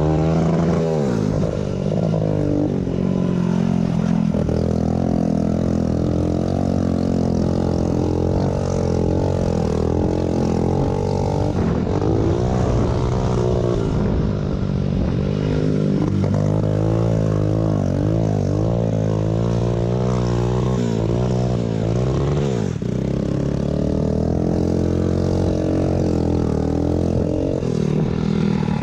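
Small pit bike engine running under throttle during a race, its pitch rising and falling as it revs, with several sharp drops where the throttle is chopped or a gear is changed.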